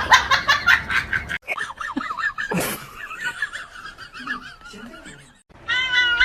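People laughing in quick repeated pulses, then softer wavering chuckles.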